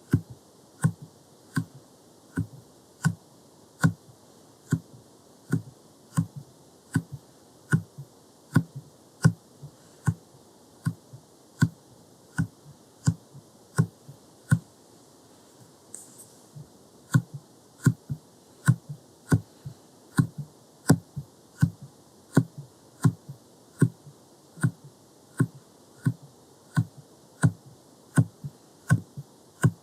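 Silicone jelly stamper tapped and pressed against the microphone in a steady run of sharp taps, about one or two a second.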